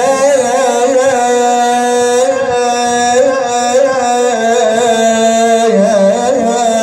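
A man's voice singing one long, drawn-out note of a mournful Arabic elegy (nai), held on a steady pitch with small wavering ornamental turns and a brief dip in pitch near the end.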